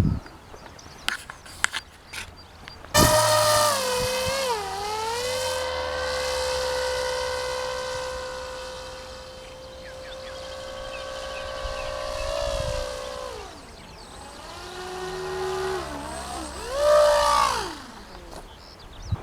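A small motor's high whine starts suddenly about three seconds in, dips, then holds a steady pitch for several seconds before winding down. It rises and falls once more near the end. A few clicks and knocks come before it.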